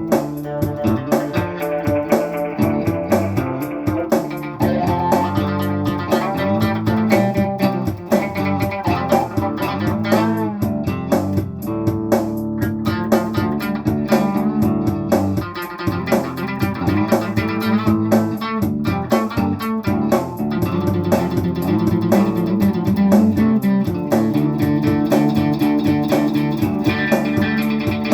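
Instrumental break of a blues-rock band: guitars and bass guitar playing.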